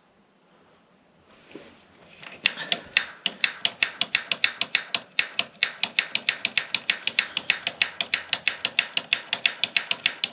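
Gas water heater's spark igniter clicking rapidly and evenly, about four to five clicks a second, starting a couple of seconds in: sparking to light the pilot, which has not yet lit.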